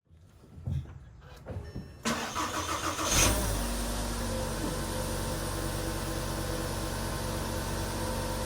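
Car engine cold-started in deep sub-zero cold: a few faint clicks, about a second of cranking, the engine catching with a loud flare just after three seconds, then settling into a steady idle.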